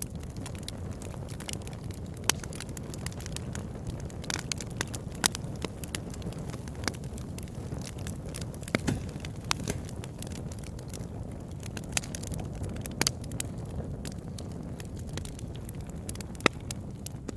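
Wood campfire burning with a steady low rumble and irregular crackles, with a few sharper pops standing out, one near the end.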